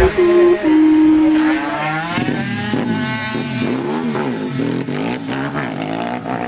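Several small pitbike engines racing, their pitch rising and falling and crossing as the bikes rev and pass one another.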